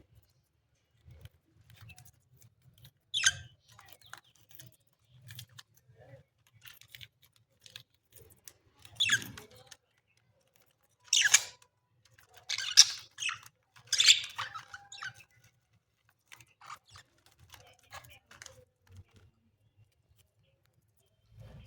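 Pet budgerigars making short, scattered chirps and harsh squawks, with a cluster of louder calls around the middle and quieter stretches between.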